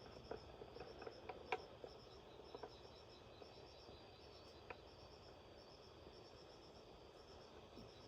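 Faint chirping of insects, most likely crickets: short high pulses repeating steadily in small groups. A few small sharp clicks or taps are heard in the first three seconds, the loudest about one and a half seconds in.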